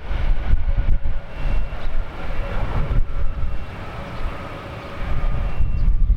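Jet airliner's engines, an Embraer ERJ-170 landing, with a faint steady whine under heavy wind buffeting on the microphone. The gusty rumble eases for a moment about two thirds of the way through and then picks up again.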